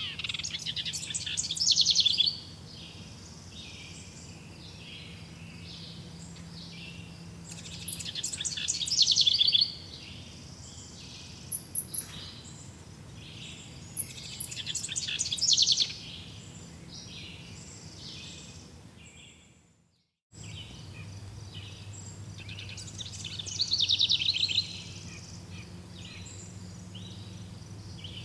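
A songbird singing short trilled phrases, each swelling and stopping abruptly, four times about every six to seven seconds over a steady background hush of forest ambience. About two thirds of the way in the whole sound fades out and cuts back in, like the join of a loop.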